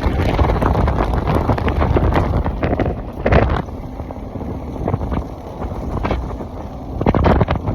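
Wind buffeting the microphone over the low rumble of a moving truck, swelling in gusts, with louder surges about three seconds in and near the end.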